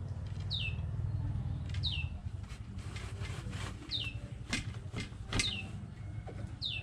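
A bird repeating a short, high, falling chirp about once every second, over the wooden clacks and knocks of a backstrap loom being worked by hand, with the sharpest knocks a little past the middle.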